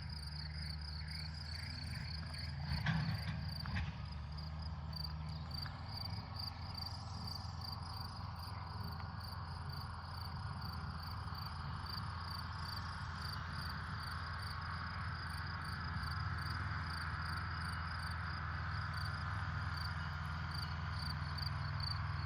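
Crickets chirping in a steady, even rhythm, about three chirps a second, over a low steady drone.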